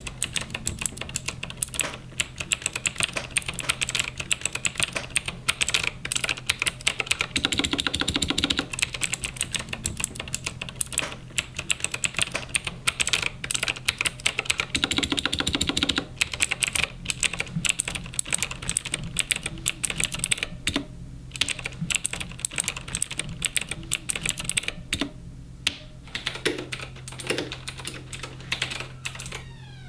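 Rapid typing on a computer keyboard, keys clattering almost without a break apart from a couple of short pauses about two-thirds of the way through, over a steady low hum.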